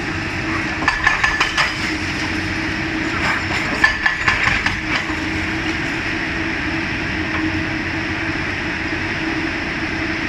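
Caterpillar 320D L hydraulic excavator running steadily with a constant hum while demolishing a building. Two clusters of sharp knocks and cracks come from breaking masonry and falling debris, one about a second in and a longer one around three to five seconds in.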